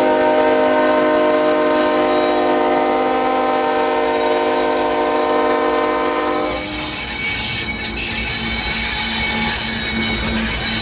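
Locomotive air horn sounding one long chord of several notes, cutting off about six and a half seconds in. Then the train rolls past with wheel squeal and rail clatter.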